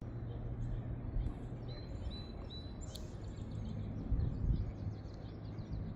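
Small birds chirping faintly over a steady low rumble of outdoor background noise: three short, even, high chirps about two seconds in, then a quick run of fainter chirps, with a single sharp click between them.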